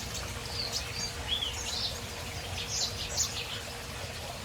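Small aviary songbirds, canaries and finches, chirping and twittering: scattered short chirps and quick falling notes, over a steady low background noise.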